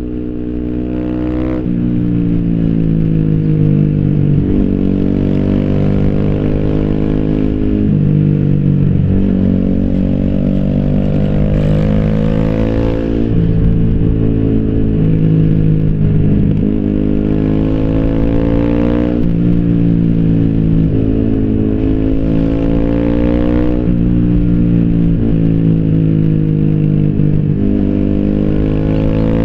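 Yamaha YZF-R 125's single-cylinder four-stroke engine through an Arrow slip-on exhaust, pulling away and accelerating through the gears. The engine note climbs steadily in pitch, then drops sharply at each shift, about every few seconds.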